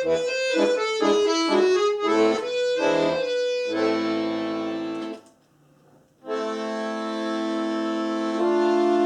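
Solo accordion playing a Russian folk tune: a quick run of short, separate notes, then a held chord. After a brief pause of about a second, it plays long sustained chords, which swell louder near the end.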